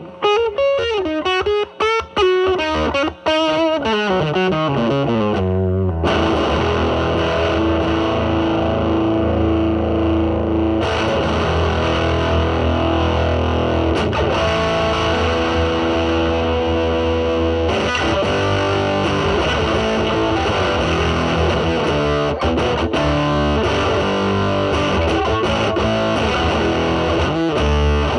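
Electric guitar (Telecaster) played through a DIY Mosrite Fuzzrite clone fuzz pedal with a 2N2369 silicon transistor, into a Marshall Valvestate amp's drive channel. It opens with single-note bent lines, then moves to sustained fuzzy chords from about six seconds in. Partway through, the pedal's fuzz control goes to maximum.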